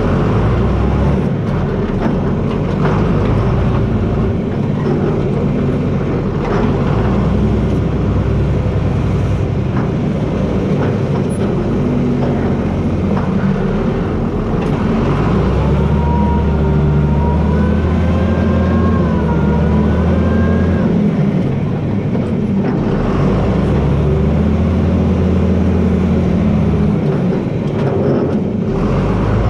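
John Deere 4320 tractor's six-cylinder diesel engine running steadily, its note shifting as the load changes while the blade works. In the middle, a thin whine wavers for about five seconds over the engine.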